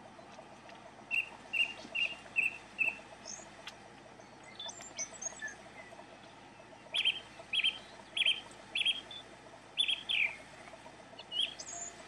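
Wild songbirds calling: two runs of short, evenly spaced notes, one about a second in and another from about seven seconds in, with scattered higher chirps between.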